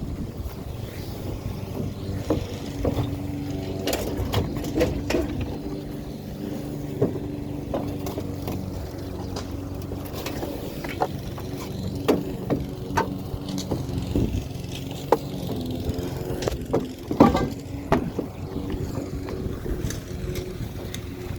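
A vehicle engine running steadily while driving, with frequent scattered knocks and rattles over it.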